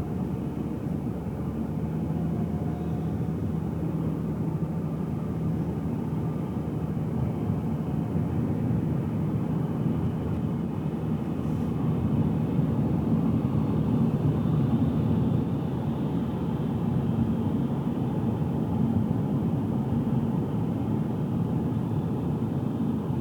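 Car cabin sound while driving: a steady low rumble of engine and tyres on the road, with a faint engine hum, growing a little louder about halfway through.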